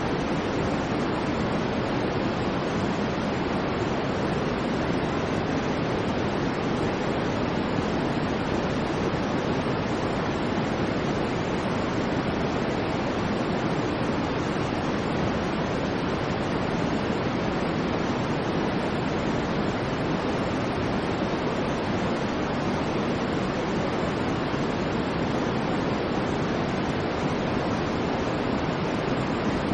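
Steady electronically generated white noise: an even, unchanging hiss, fuller in the low and middle range than in the highs.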